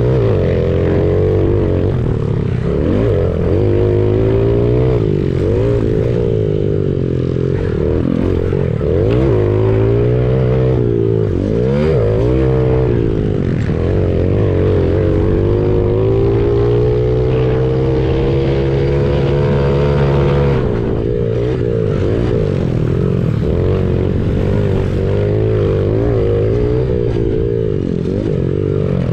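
Honda CRF70 pit bike's small single-cylinder four-stroke engine heard onboard, revving up and down repeatedly as the throttle is worked. About two-thirds of the way in, the revs are held high for several seconds, then drop off sharply.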